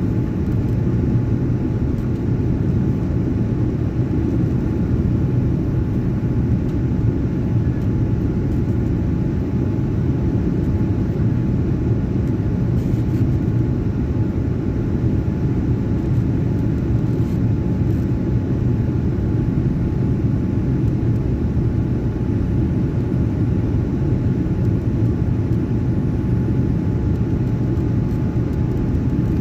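Airliner in flight on its approach to land: a steady low rumble of engines and airflow, with a faint steady whine above it.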